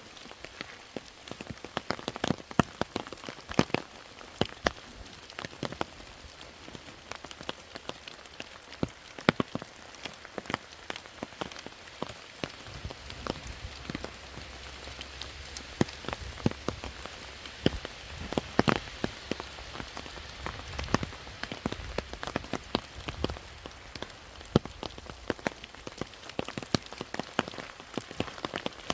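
Rain falling, with many separate drops landing as sharp, irregular taps over a steady hiss. A low rumble joins in for several seconds near the middle.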